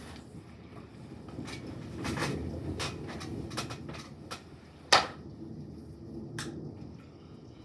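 Low rumble of distant thunder that swells about two seconds in and tails off, with scattered sharp ticks and taps over it; the loudest tap comes about five seconds in.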